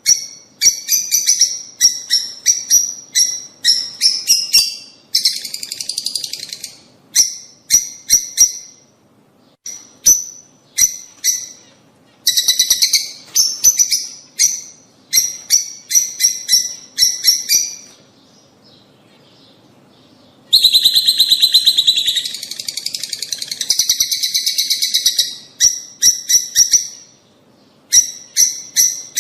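Lovebirds calling: loud, shrill chirps in quick runs. There is a short pause about eighteen seconds in, then a dense stretch of chatter.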